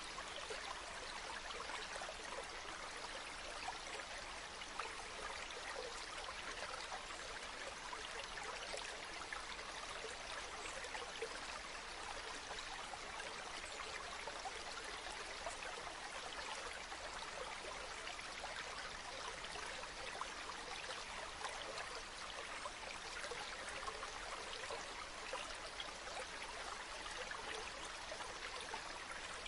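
Running water: a steady, unbroken rush of a stream or waterfall pouring over rocks.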